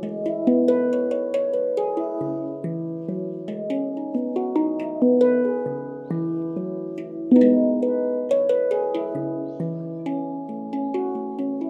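Handpan being played: a flowing run of struck steel notes, each ringing on and overlapping the next, with a couple of harder-struck accents midway.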